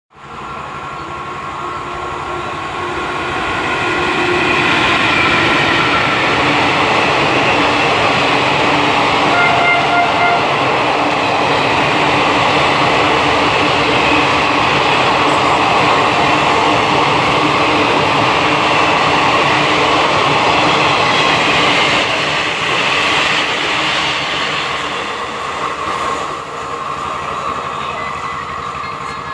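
Howrah–Patna Jan Shatabdi Express, an electric-locomotive-hauled passenger train, passing through a station at speed. The noise builds over the first few seconds as it approaches, holds loud and steady as the coaches rush by, and fades near the end as the train pulls away.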